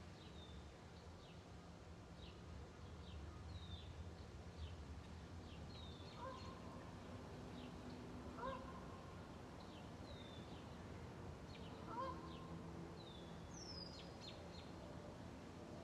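Faint birds calling: many short high chirps repeating throughout, with three louder, lower calls in the second half, over a low steady hum.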